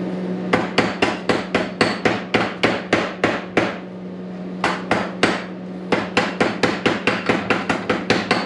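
Chipping hammer rapping slag off a freshly laid weld bead on steel, quick sharp strikes about four a second in two runs with a brief pause just before the middle. A steady low hum runs underneath.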